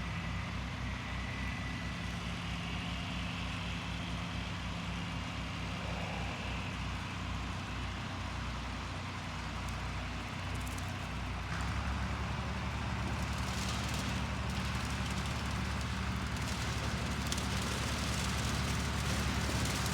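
John Deere 4020 tractor running with a gyro mower (rotary cutter) behind it, a steady engine sound that grows louder about twelve seconds in.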